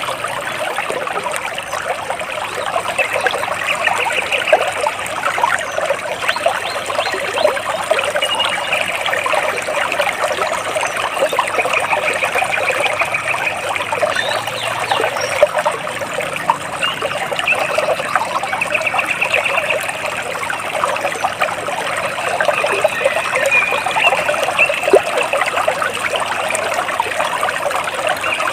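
Water splashing and trickling steadily, with short, rapid trills from birds recurring every few seconds above it.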